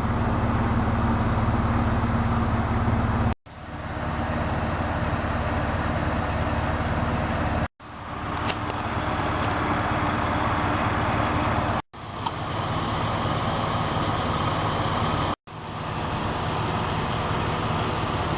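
A vehicle engine running steadily at idle, broken by sudden cuts to silence about every four seconds.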